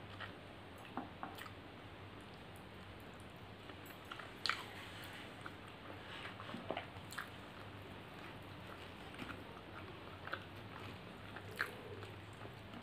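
Close-miked mouth sounds of a person chewing a mouthful of rice and mutton curry: soft wet smacks and clicks at irregular moments over a faint steady low hum.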